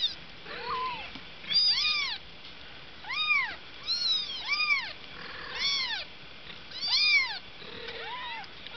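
Young kittens meowing repeatedly, high thin mews that each rise and fall, about one a second, with two calls overlapping about two seconds in.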